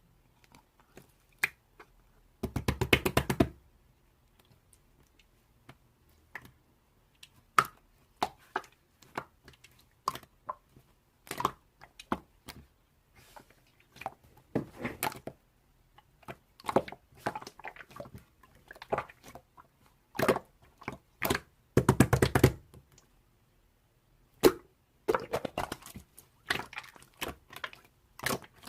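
Irregular clicks and knocks, with two short bursts of rapid clicking, about three seconds in and again about twenty-two seconds in.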